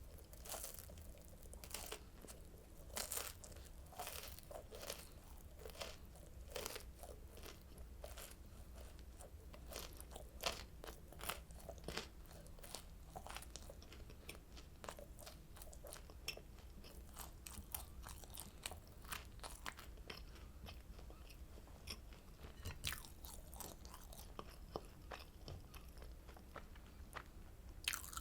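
Chewing oranda, a crunchy Korean candy of puffed grain pellets bound with grain syrup: a continuous run of small, irregular crisp crunches as the pieces are bitten and chewed.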